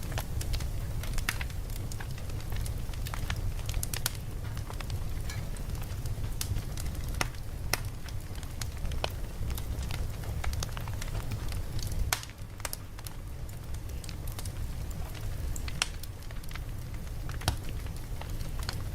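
Campfire burning: a steady low rumble with frequent sharp crackles and pops of burning wood.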